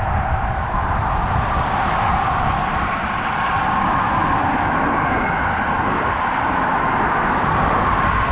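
Steady traffic noise of cars on a highway, with a rumble of wind on the microphone of a moving bicycle.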